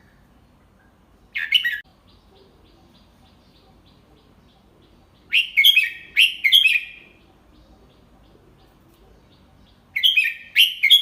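Red-whiskered bulbul singing in short bursts of quick chirping notes: a brief phrase about a second and a half in, a longer phrase of several notes around five seconds in, and another phrase starting near the end.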